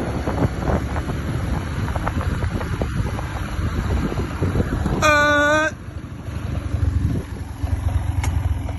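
Wind buffeting the microphone over a steady low outdoor rumble. About five seconds in, a single short, steady pitched tone sounds for under a second.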